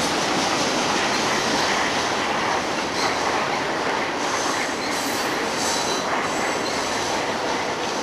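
Trash train of freight cars rolling past with a steady rumble of wheels on rail. Faint high wheel squeals come in from about halfway through.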